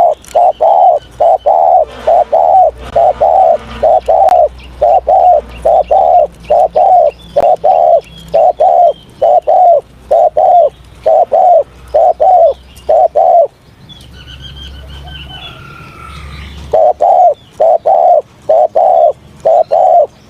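Spotted dove cooing in a fast, even series of short coos, about two or three a second. The coos break off about thirteen seconds in. During the pause another bird gives short falling chirps, then the cooing resumes near the end.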